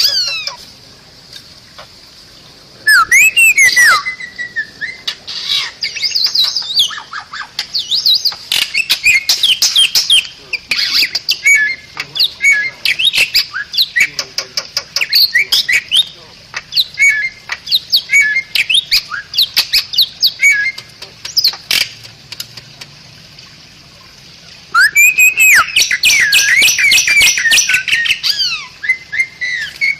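Bali myna singing: loud phrases of rapid whistles, sharp chattering clicks and rising and falling glides, broken by short pauses. A longer pause falls about three-quarters of the way in, and a dense, loud phrase follows near the end.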